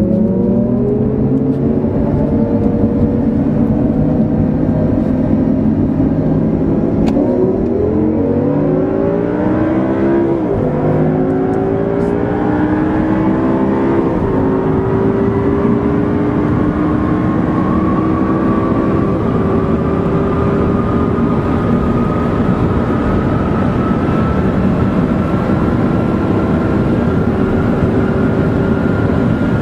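A V10 sports-car engine accelerating hard through the gears. Its pitch climbs, drops at quick upshifts about 7, 10 and 14 seconds in, then rises slowly and steadily in a high gear.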